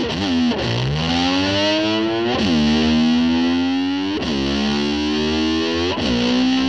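Distorted electric slide guitar imitating a motor scooter revving. The pitch dips and swoops back up about every two seconds, each time settling into a long held note.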